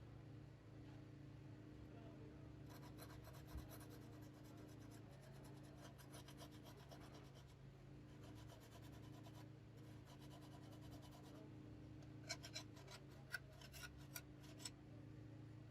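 Quiet scraping and rubbing of a repair tool on a smartphone, in long runs of rapid fine strokes, followed near the end by a few sharper clicks, over a steady low hum.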